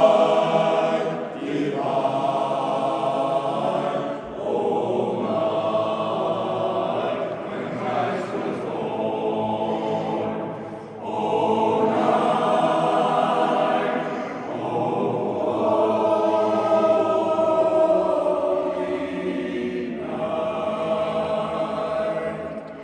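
Barbershop chorus singing a cappella in close harmony: sustained chords in phrases of a few seconds, with short breaths between them, the last chord fading near the end.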